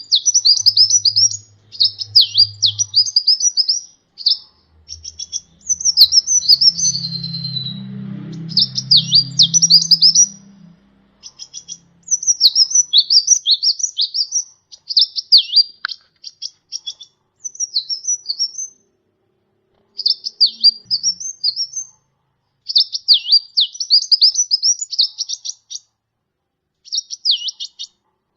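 Sunbird (kolibri ninja) singing: rapid, high-pitched chirps and trilled twitters in phrases of one to three seconds, separated by short pauses. A faint low hum sits under the song during the first ten seconds or so.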